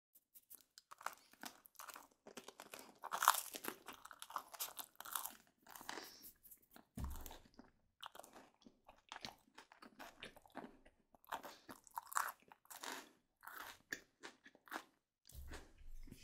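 Close-miked chewing of crisp oven-baked garlic baguette: irregular crunches with wet mouth sounds, loudest about three seconds in.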